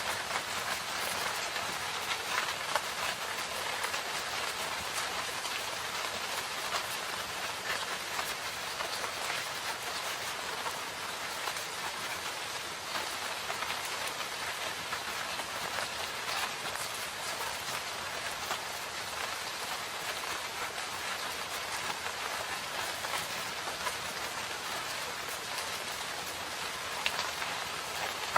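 Steady rain falling in a forest, a dense even hiss scattered with individual drop ticks.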